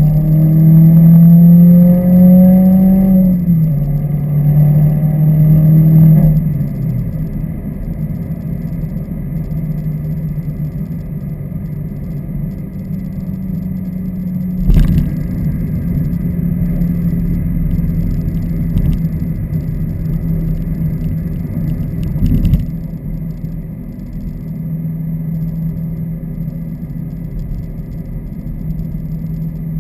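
Subaru WRX turbo flat-four through a muffler-deleted axle-back exhaust, pulling hard: the engine note rises, drops at a gear change about three seconds in, rises again, then eases off to a steadier, quieter drone. Two brief thumps come in the middle stretch.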